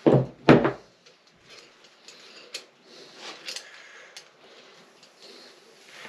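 Two loud clunks of metal tools or engine parts in quick succession at the start, then light, scattered clinks and taps of tools and bolts being handled during engine disassembly.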